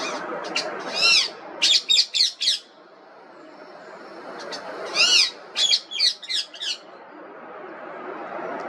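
Indian ringneck parrot giving shrill screeching calls in two bouts: one longer call about a second in followed by a quick run of about five short ones, then again around five seconds in. A steady background noise runs underneath.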